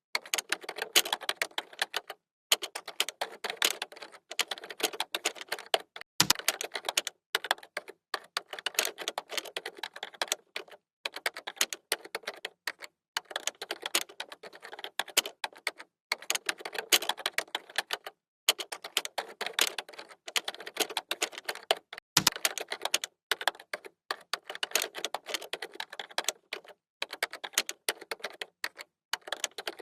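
Fast, continuous typing on a computer keyboard: rapid runs of key clicks broken by short pauses, with two heavier key strikes, one about six seconds in and one about twenty-two seconds in.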